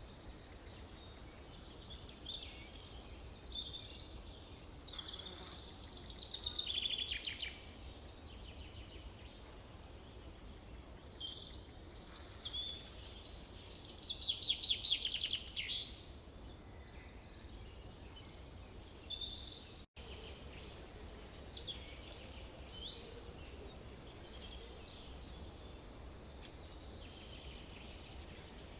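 Forest birdsong: many birds calling and singing over a steady low background rumble, with two louder rapid trills, one about six seconds in and one around fifteen seconds in. The sound cuts out for an instant about twenty seconds in.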